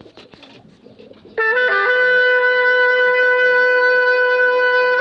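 A few faint sounds, then about a second and a half in a wind instrument comes in loud with a brief dip in pitch and holds one long steady note. It is the instrumental opening of a song.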